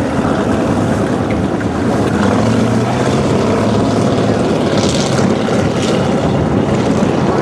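Chevrolet 283 small-block V8 inboard engine of a homebuilt boat, running steadily under way on the water, with wind and water noise over it.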